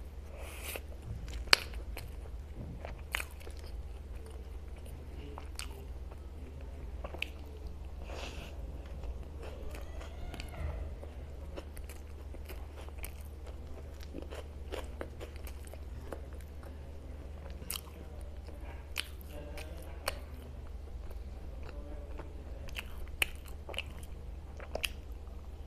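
Close-up mouth sounds of a person eating pav bread dipped in bhaji, chewing with sharp mouth clicks at irregular moments, the loudest about a second and a half in, over a steady low hum.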